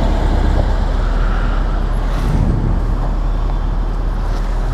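Motorcycle running on the road, with steady loud wind noise on the microphone.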